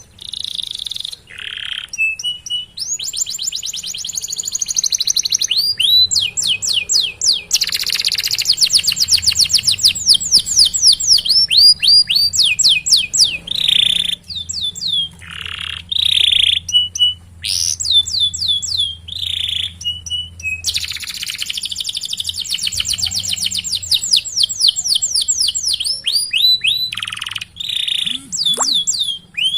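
Domestic canary singing a long song of rapid rolling trills, fast runs of falling chirps, broken by short held notes and brief pauses.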